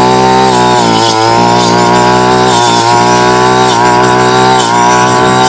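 52cc two-stroke backpack brush cutter engine running at high revs, its pitch dipping briefly a few times as it takes load while cutting.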